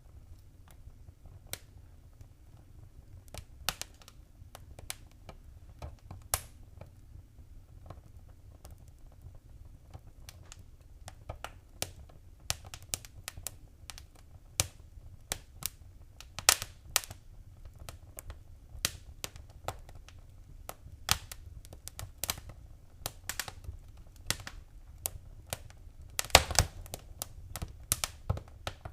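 Wood fire in a fireplace crackling: irregular sharp pops and snaps over a low, steady rumble, with a quick run of louder pops near the end.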